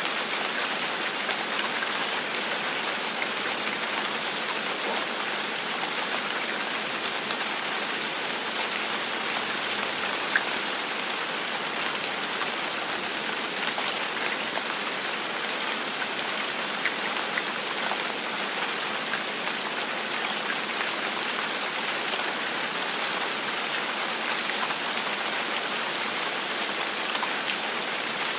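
Steady gentle rain falling on a surface, an even hiss with scattered individual drops ticking.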